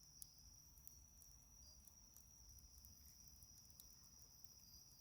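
Faint steady, high-pitched trill of night insects, with scattered small pops and snaps from a crackling wood fire.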